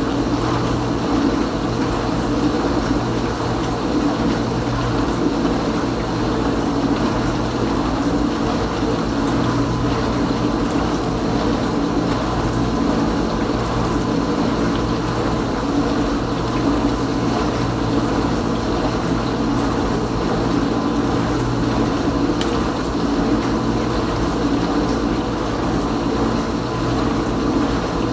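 Kenmore Ultra Wash 3 dishwasher running its Normal cycle: a steady pump hum with water sloshing and spraying inside the tub, unchanging throughout.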